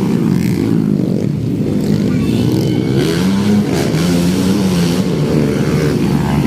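Trail/motocross dirt-bike engines racing on a dirt circuit, revving up and down as the bikes accelerate and back off.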